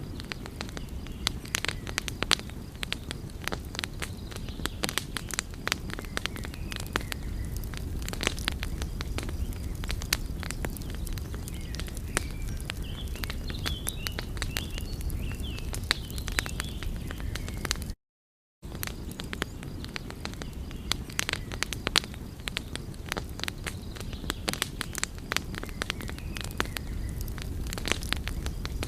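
Wood fire crackling: a steady low rumble of flames with frequent sharp pops and snaps of burning wood. The sound cuts out completely for about half a second partway through, then resumes.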